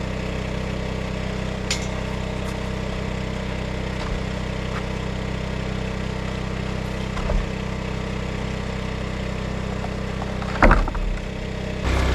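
An engine running steadily at an even idle, with a few light clicks and one louder knock near the end.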